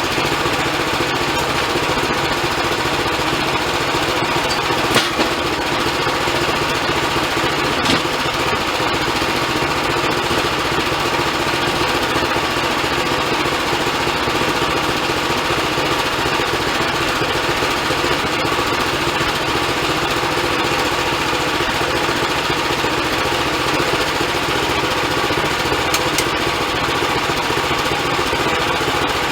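Band sawmill running steadily, its engine and blade making a constant machine noise, with a sharp knock about five seconds in and another about three seconds later.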